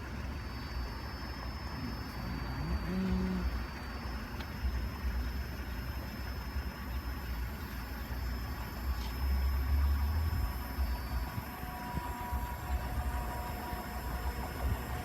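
Vehicle engines idling with a low, steady rumble that swells briefly about ten seconds in. Faint steady tones come in near the end.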